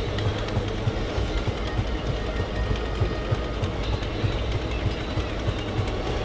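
Passenger train running, heard from inside a carriage at the window: a steady rumble with short wheel clicks over the rails.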